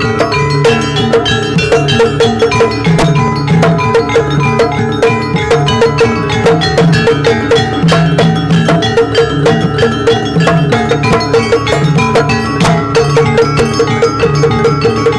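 Javanese jaranan ensemble music: gamelan-style metallophones and gongs with drums, playing many quick, evenly spaced struck notes in a steady, unbroken rhythm.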